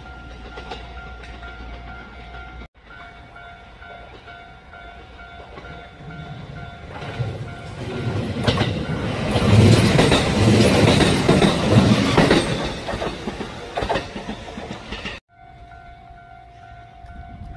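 A train passes close by, its running noise and wheel clatter swelling to a loud peak in the middle and falling away, over a steady pulsing ringing tone.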